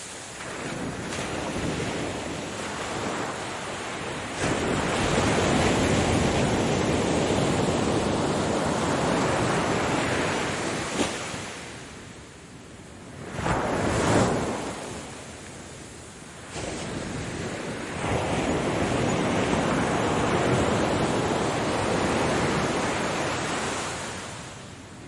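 Ocean surf: waves breaking and washing in, the rush swelling and ebbing every few seconds, easing off near the end.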